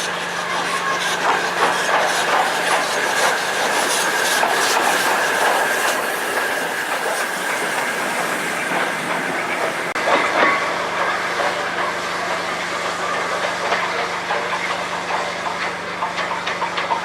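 A train running along the track: a steady hum, with the wheels clicking over the rail joints, the clicks most frequent in the first few seconds.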